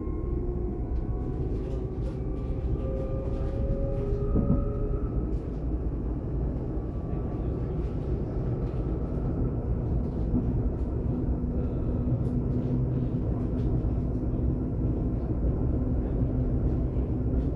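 DB class 422 electric multiple unit running, heard on board: a steady rolling rumble, with a faint whine of several tones slowly rising in pitch as it picks up speed during the first few seconds, and a steady low hum from about ten seconds in.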